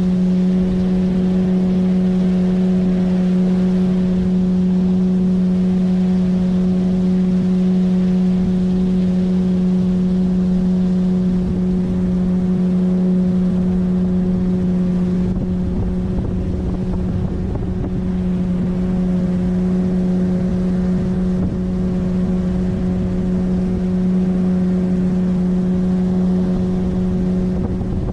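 A 9.8 hp outboard motor on a PVC inflatable boat running at a steady cruising speed, a steady droning note with water and wind noise under it.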